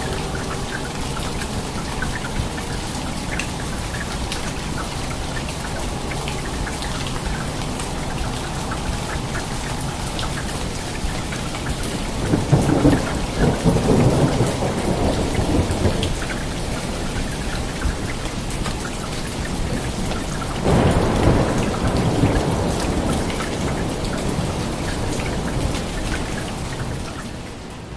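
Steady rain with two rolls of thunder, the first about twelve seconds in and the second about twenty seconds in, each rumbling for a few seconds.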